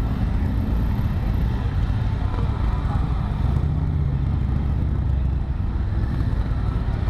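Yamaha XT 600E's single-cylinder four-stroke engine running steadily as the motorcycle rides along, with a deep, dense rumble and wind noise on the helmet microphone.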